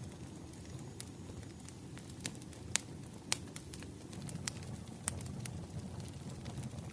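Wood fire crackling: sharp pops and snaps at irregular intervals over a steady low rumble of burning logs.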